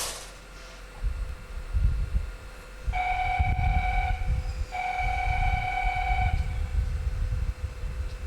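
Freight locomotive's horn sounding twice during shunting, a shorter blast and then a longer one, over a steady low rumble; a short hiss of air at the very start.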